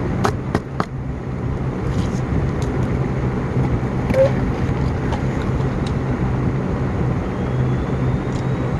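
Steady low hum of a car engine running, heard from inside the vehicle, with a few sharp clicks in the first second and a short squeak about four seconds in.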